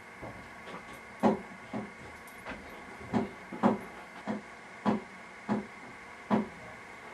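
A series of about a dozen dull knocks or thumps, roughly two a second at an uneven pace, over a faint steady hiss.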